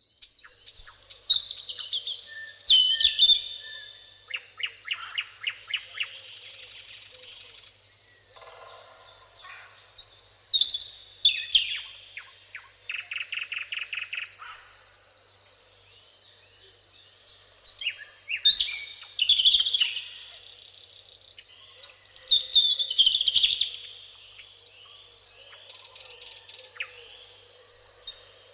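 Several songbirds singing in a meadow, with loud warbled phrases and rapid trills coming in bursts every few seconds. Under them runs a steady high-pitched insect trill, like crickets.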